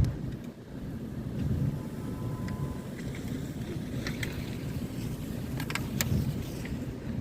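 Winter wind buffeting the microphone in a low, gusting rumble, with a few light clicks a little past the middle.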